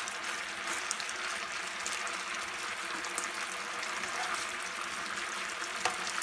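Brown sugar and soy sauce marinade sizzling and bubbling around chicken thighs in a skillet over high heat as it reduces to a glaze, with a couple of light clicks of metal tongs against the pan.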